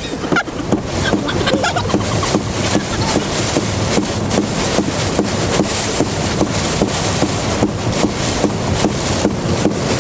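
Thunderstorm wind and heavy rain: a loud, steady rush of noise with many quick taps of drops striking throughout.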